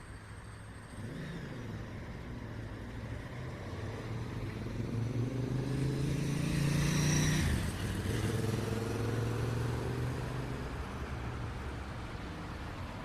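A single motor vehicle drives past over the steady hum of city traffic. Its engine grows louder for several seconds, peaks about seven seconds in, and drops in pitch as it goes by, then fades.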